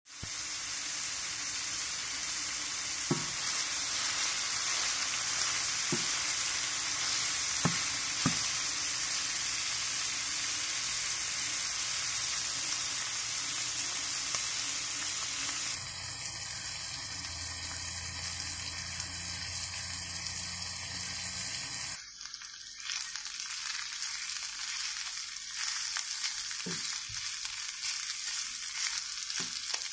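Ground meat, onions and bell peppers sizzling in a frying pan. A few sharp knocks come as the food is stirred with a wooden spatula.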